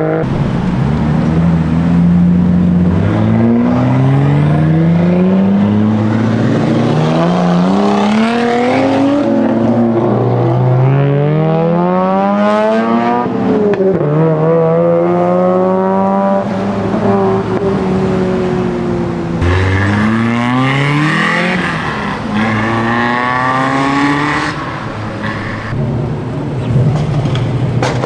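Car engines revving hard and accelerating, the pitch climbing and dropping back again and again as they pull through the gears.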